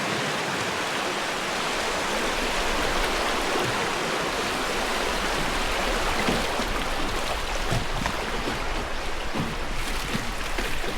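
Steady rushing river water around a wooden river boat, an even hiss of flowing water.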